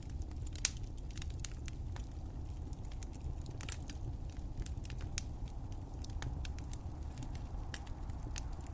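Wood fire crackling in a fireplace: irregular sharp pops and snaps, a few a second, over a low steady rumble of the flames.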